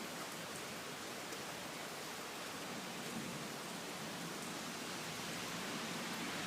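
Heavy rain falling in a steady hiss, growing slightly louder toward the end.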